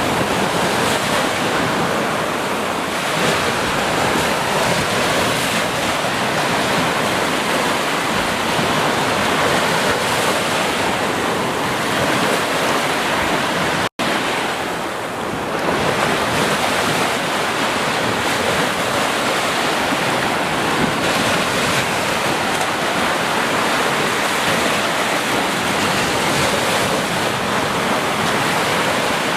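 Ocean surf washing onto a beach, a continuous rushing wash of waves with gentle swells in loudness. About halfway through, the sound cuts out for an instant.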